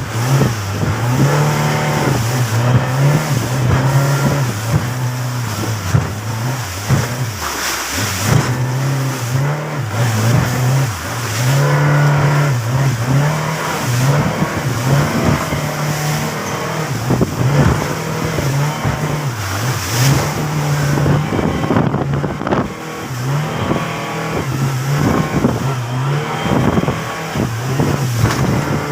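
Fishing boat engine running under way, its pitch wavering up and down, with wind and water noise over it.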